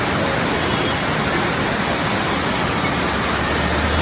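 Loud, steady rush of water, with a low rumble building near the end.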